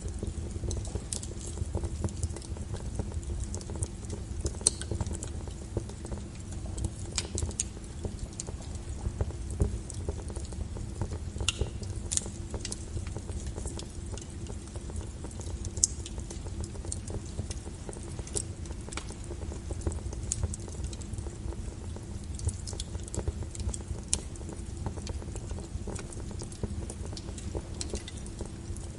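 Wood logs burning in a fireplace: a steady low rumble with irregular sharp crackles and pops scattered throughout.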